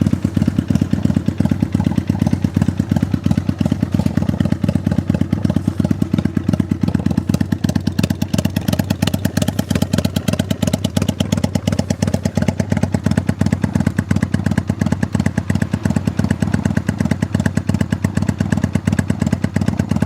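Kawasaki Vulcan 400 Classic V-twin idling steadily through slash-cut mufflers, a quite loud, even stream of rapid exhaust pulses.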